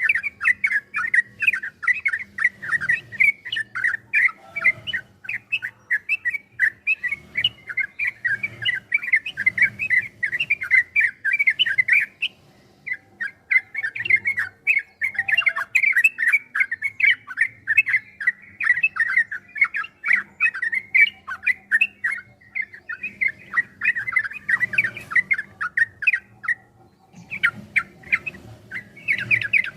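Sooty-headed bulbul (trucukan) singing a long, rapid song of quick chattering notes in long unbroken runs, pausing briefly about twelve seconds in and again near the end.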